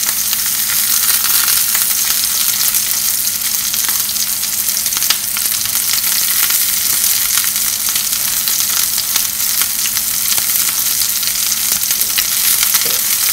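Sliced mushrooms frying in oil in a non-stick frying pan on a gas hob: a steady sizzle with many small crackles and spits.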